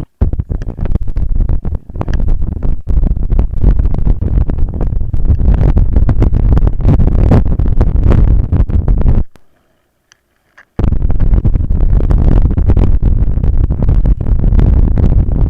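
Wind buffeting the microphone of a Mobius action camera mounted on a moving bicycle: a loud, low rumble with frequent jolts and knocks from the ride. It cuts out to near silence for about a second and a half in the middle, then returns.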